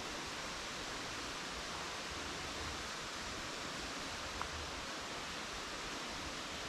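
Steady rushing hiss of flowing water, an even wash with no change in level.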